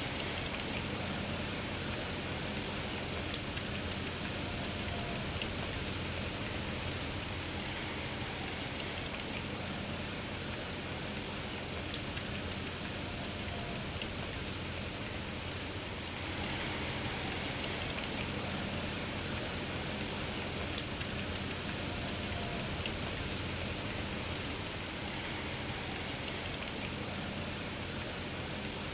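Steady rain falling, an even hiss and patter. Three sharp, louder drip knocks stand out through it.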